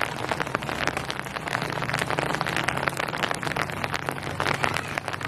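Steady rain with many individual drops pattering on a surface, with a faint low hum underneath.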